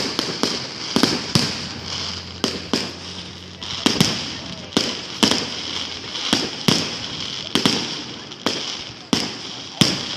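Fireworks and firecrackers going off: an irregular run of sharp bangs, about two a second, over a steady hiss.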